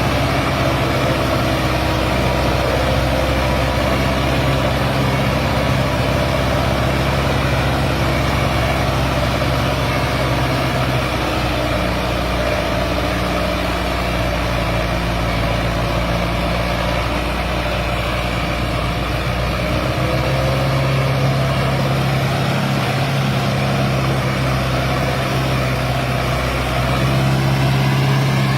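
Sonalika DI 750 tractor's diesel engine running steadily, pulling a fully loaded trolley, its pitch shifting a little around the middle and rising slightly near the end.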